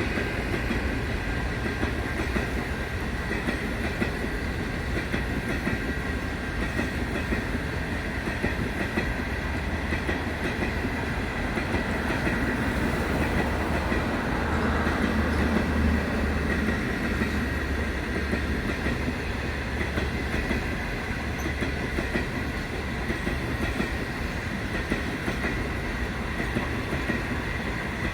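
A train running along the track: a steady rumble of wheels on rails with some clickety-clack, a little louder about halfway through.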